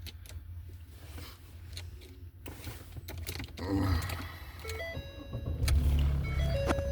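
A car running, heard from inside the cabin: a steady low rumble that gets louder about four seconds in and again near six seconds, with scattered clicks.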